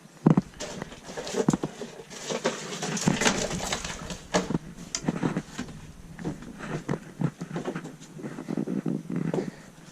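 Irregular rustling, taps and knocks from handling bitumen sound-deadening mats on a car floor, in a small space that echoes a little.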